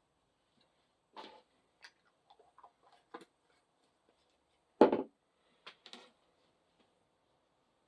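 Scattered light clicks and taps of handling, with one louder knock about five seconds in and two smaller ones just after.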